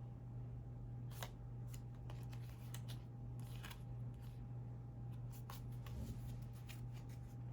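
Tarot cards being handled, with scattered light clicks and rustles of card stock, over a steady low electrical hum.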